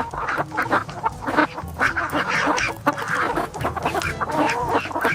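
Domestic fowl calling: a busy run of short, overlapping calls.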